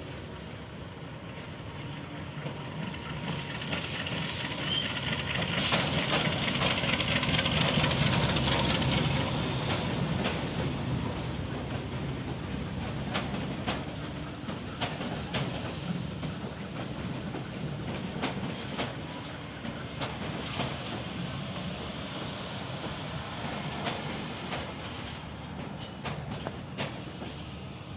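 BB 203 diesel-electric locomotive and its passenger carriages rolling past slowly as the train arrives at the station. The locomotive's low rumble swells and is loudest about a quarter of the way in, then eases off while the carriages' wheels give a run of irregular clicks and knocks over the rail joints and points.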